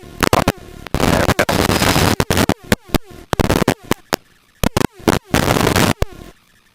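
Helicopter cockpit intercom audio switching on and off many times: loud cabin and rotor noise cuts in and out abruptly with sharp pops, leaving near-silent gaps, with scraps of a voice in between.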